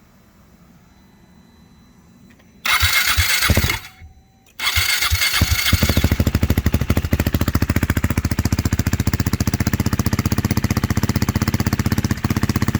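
A KTM 390-family single-cylinder motorcycle engine breathing through a short slip-on exhaust tip with a small silencer and no muffler, on its cold first start. After a few quiet seconds a first burst of about a second cuts out. A second try a moment later catches, and the engine settles into a steady idle with an even pulsing exhaust beat.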